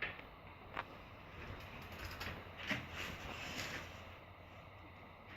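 Bicycle parts being handled: a few separate mechanical clicks and creaks over a quiet background.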